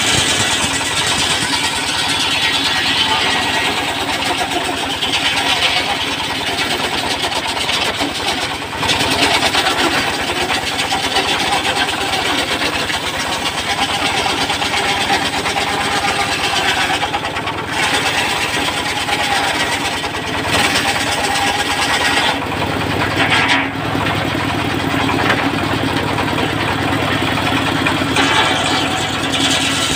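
The engine of a wood-sawing machine running steadily, with a few brief dips in level.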